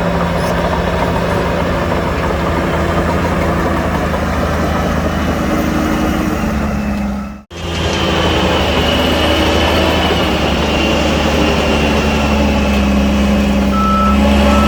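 Heavy diesel earthmoving machinery running steadily under load, a bulldozer and dump trucks working soil. The sound drops out briefly about halfway at a cut, and short repeated beeps, like a reversing alarm, start near the end.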